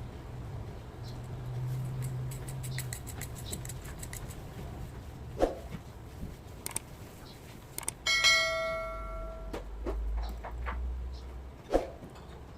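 Clicks and light taps of small electronic parts and tools being handled, with a quick run of ticks about two to three seconds in. About eight seconds in, a sudden metallic ring, like a small metal object struck or dropped, fades out over about a second and a half.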